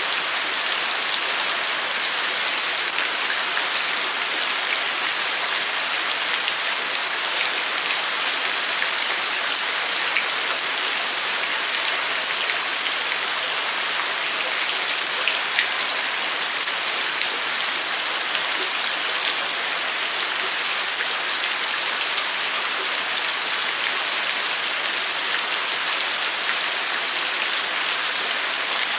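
Steady rain falling at night, an even hiss of drops on surfaces, with faint individual drop ticks now and then.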